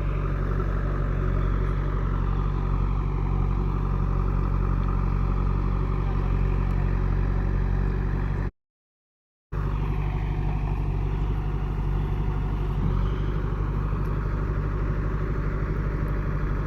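Heavy diesel engine running steadily at a constant speed. The sound cuts out completely for about a second midway, then carries on as before.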